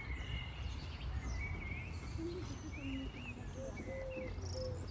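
Small birds chirping in short repeated calls over a steady low rush of flowing river water.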